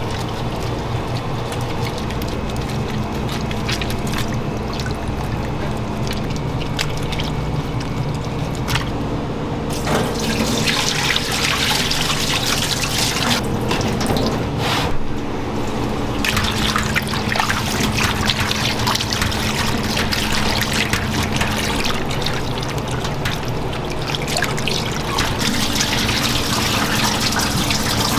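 Water running from a tap and splashing into a sink, growing stronger for a few seconds twice, over a steady low machine hum.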